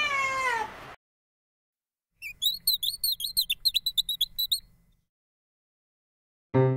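A cat's meow tails off at the start. About two seconds in, a small bird twitters in quick, high, repeated chirps for about two and a half seconds. Piano music begins near the end.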